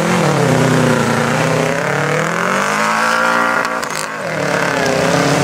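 Race vehicle engine accelerating hard down a sand drag strip: the engine pitch climbs for about three seconds, dips about four seconds in, then climbs again.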